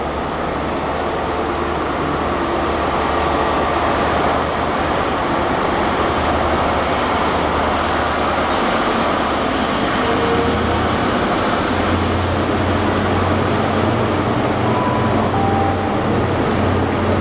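A passenger train moving along a far platform: a steady rumble with a low drone that grows louder about two-thirds of the way through.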